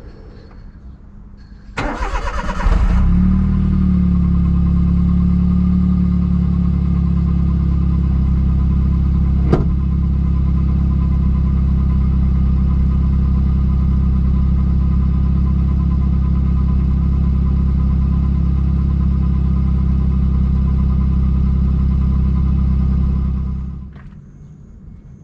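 Suzuki Alto Works K6A three-cylinder turbo engine on its stock exhaust: the starter cranks for under a second, the engine catches with a brief flare, then settles into a steady idle. It is switched off near the end. A single sharp click sounds about a third of the way through.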